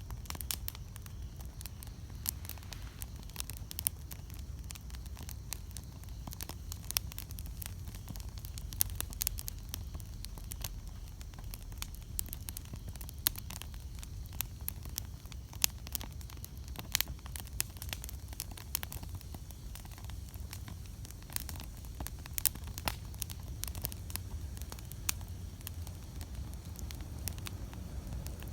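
Wood campfire burning, crackling and popping irregularly over a low steady rumble of the flames.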